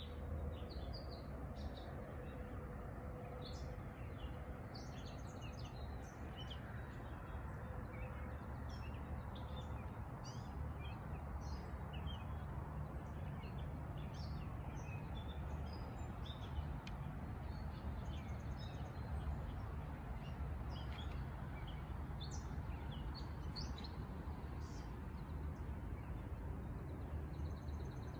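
Many small birds chirping and calling in short, scattered notes over a steady low rumble.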